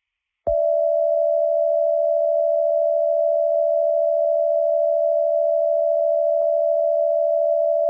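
A steady electronic tone from a simulated emergency alert broadcast, one unchanging pitch starting about half a second in and held without a break.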